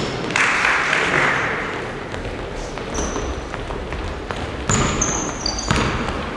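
Basketballs bouncing on a gym floor, with short high squeaks now and then.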